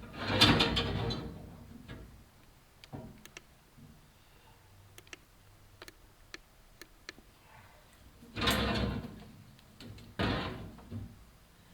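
Chimney inspection camera scraping and rubbing against the clay flue tile as it is worked down the flue. There is a loud scrape at the start, scattered light clicks and taps through the middle, and two more scrapes near the end.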